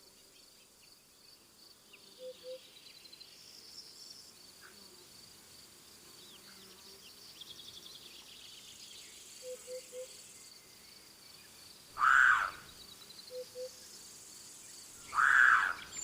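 Steady pulsing chirring of insects such as crickets, with soft two- and three-note hoots from a bird now and then. Two loud, short, arching animal calls come near the end, about three seconds apart.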